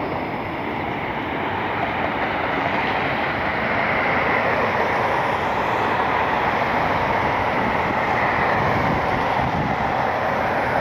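Boeing 737-900 airliner's CFM56 jet engines at takeoff power: a steady rushing jet noise that grows louder over the first four seconds, then holds.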